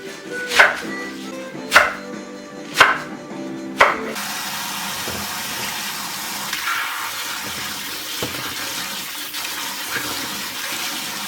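Four sharp knocks about a second apart, like a knife chopping on a cutting board, over background music; then about four seconds in a kitchen tap is turned on and water runs steadily into the sink.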